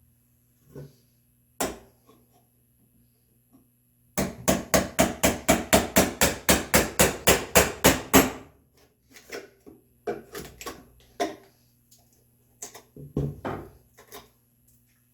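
Wooden mallet striking a chisel in red oak, chopping out an angled mortise: a fast, even run of about twenty blows over some four seconds, roughly five a second. A single knock comes before the run, and scattered lighter knocks and scrapes follow it.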